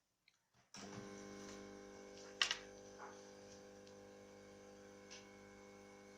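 A steady electrical hum of several tones switches on about a second in. Over it come small sharp clicks of hands working on a disassembled phone, the loudest about two and a half seconds in.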